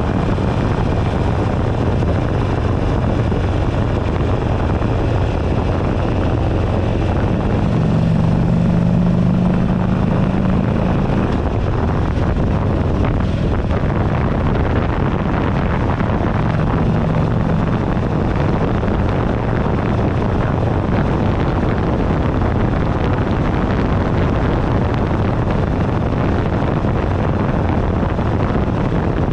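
2008 Buell Ulysses XB12XT's air-cooled V-twin running on the move, mixed with heavy wind noise on the handlebar-mounted microphone. A steady engine tone comes up clearly about eight to eleven seconds in and again briefly around sixteen seconds.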